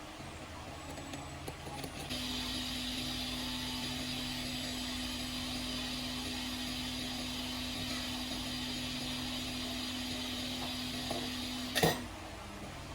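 A small electric motor or blower running with a steady hum and hiss, starting about two seconds in and cutting off with a click near the end.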